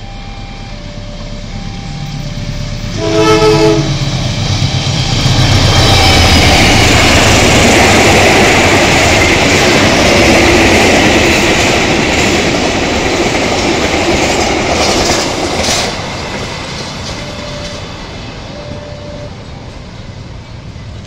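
A two-tone level-crossing alarm beeps alternately. About three seconds in, a CC 201 diesel-electric locomotive gives a short horn blast. It then passes close by with its passenger coaches: engine rumble and wheel-on-rail noise that fade after about sixteen seconds, when the crossing alarm is heard again.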